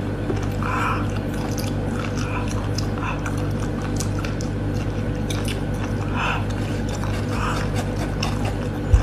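Close-miked chewing and biting, with many small wet clicks and ticks of a mouth eating, over a steady low electrical hum. A short low thump right at the end.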